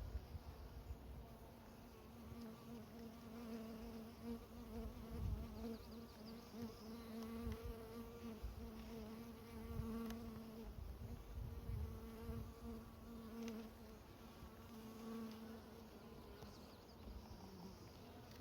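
Honey bees buzzing around an open hive: a steady hum whose pitch wavers slightly, with a few soft knocks and clicks.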